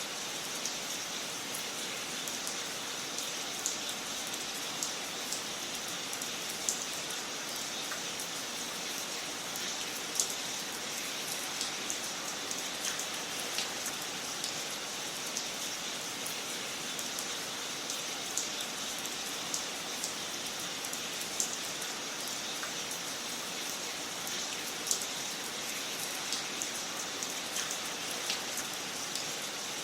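Wood fire crackling in a fireplace: a steady soft hiss with irregular small pops and snaps scattered throughout.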